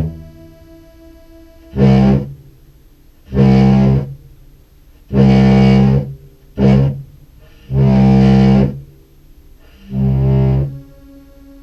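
Contrabass clarinet played through fuzz and a Meris Enzo synth pedal: six short, loud, distorted low notes, with a faint steady tone holding between them. The Enzo is still not tracking the clarinet's pitch reliably, very finicky and unpredictable.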